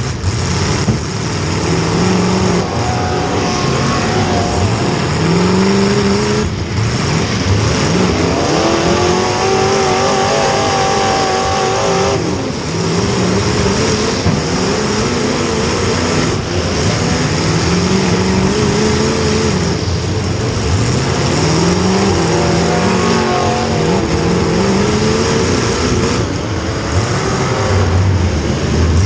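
Demolition derby car's small-block Chevy V8 revving hard in repeated runs: the engine note climbs in pitch, drops back and climbs again every few seconds, with a few brief breaks.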